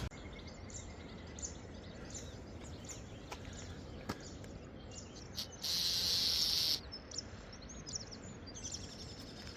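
Small birds chirping and twittering in quiet surroundings, with a loud hiss lasting about a second a little past halfway.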